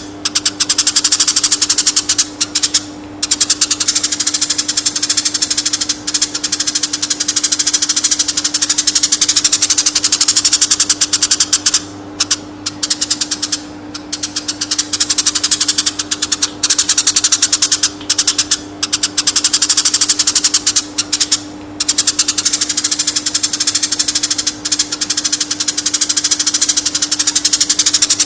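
Eurasian tree sparrow chirping in a fast, unbroken stream of short chirps. The stream pauses briefly a few times, around three seconds in, around twelve to fourteen seconds in, and around twenty-one seconds in.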